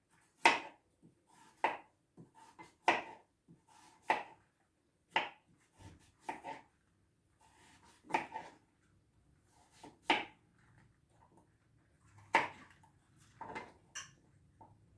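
Knife chopping raw pumpkin into small pieces: separate sharp knocks at an irregular pace of about one a second, a few in quick pairs.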